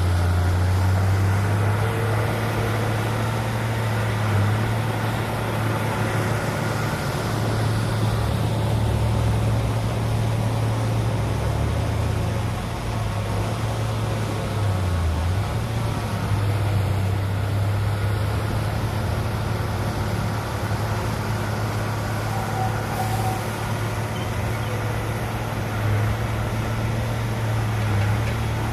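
Heavy diesel engine of earthmoving machinery running continuously with a low drone, its pitch shifting briefly around eight and fifteen seconds in as the load changes.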